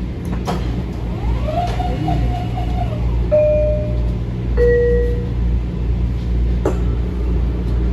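Two-note descending door chime of a Metro-North M7 railcar, high then low, sounding a little past the middle over the car's steady low hum while it stands at the platform. There are a couple of sharp knocks, one near the start and one near the end.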